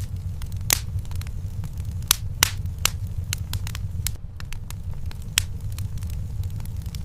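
Wood fire burning in a fireplace, crackling: irregular sharp pops and snaps, a few louder than the rest, over a steady low rumble.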